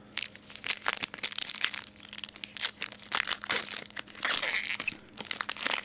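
Plastic-foil wrapper of a trading card pack being torn open and crinkled in the hands, a dense run of irregular crackles.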